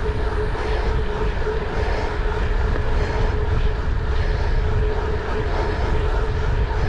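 Steady engine drone: a constant mid-pitched hum over a deep rumble, unchanging throughout.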